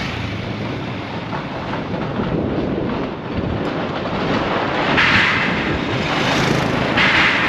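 A motorcycle engine running steadily under way, with wind rushing over the microphone that swells a couple of times in the second half.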